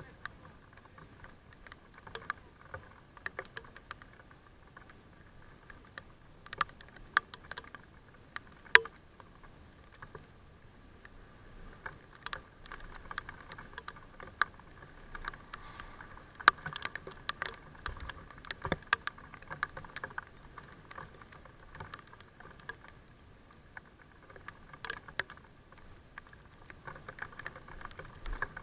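Raindrops tapping irregularly on the camera, a few of them sharp and loud, over a steady faint hum.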